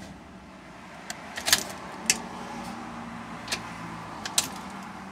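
Car keys jangling and clicking several times, over a faint steady low hum.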